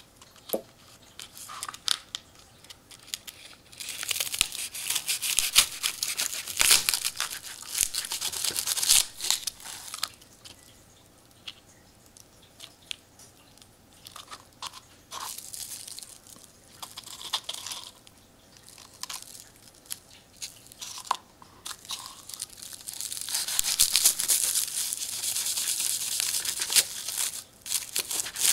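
An empty paper wasp nest being cut with a utility knife and pulled apart, its dry papery comb crunching and tearing in two long stretches, with small scattered crackles and clicks in between.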